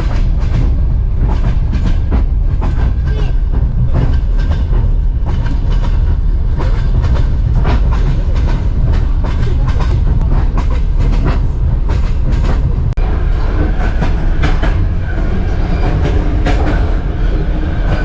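Ukrainian passenger train running on the rails: a steady, loud, heavy rumble with a constant rattling clatter of wheels and carriages over the track.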